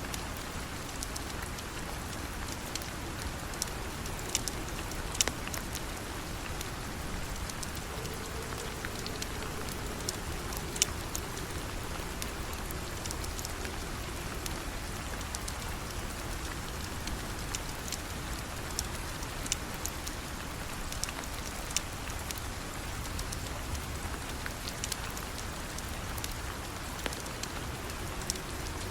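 Steady rain falling, an even hiss, with scattered sharp ticks and pops, two of them louder about five and eleven seconds in.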